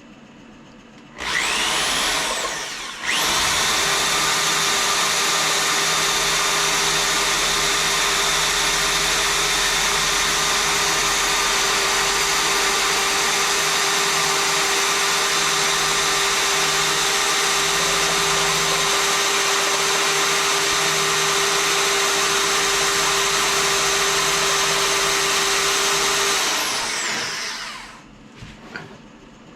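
Electric drill boring a long wiring-channel hole through a guitar body: the motor spins up about a second in, stops briefly, then runs steadily for over 20 seconds before winding down near the end.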